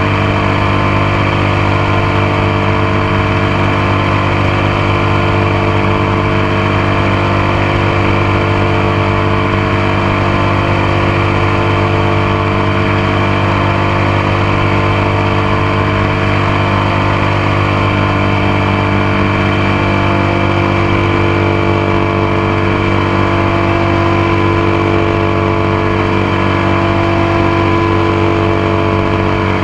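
Motorcycle engine running at a steady speed while riding, picked up close from the passenger foot peg, with steady wind and road noise over it.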